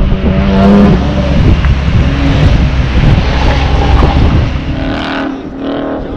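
2001 Ford Mustang GT's 4.6-litre V8 running at low speed while the car rolls off the course, with heavy wind rumble on the outside-mounted microphone. The noise drops about five seconds in as the car pulls up and stops.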